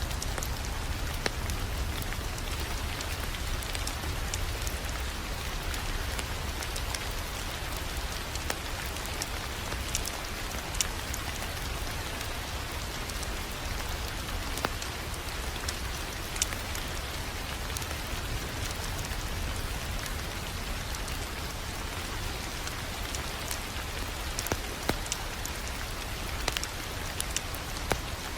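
Wood fire crackling in a fireplace: a steady hiss with irregular sharp pops and snaps, and a low rumble underneath.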